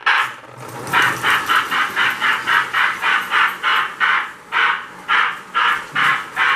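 Steam-chuff sound effect from a Lionel tender's electronic sound unit: harsh, hissing chuffs repeating evenly at about three to four a second.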